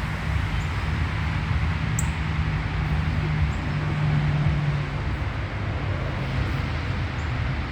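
A steady low mechanical hum, with a few faint high clicks.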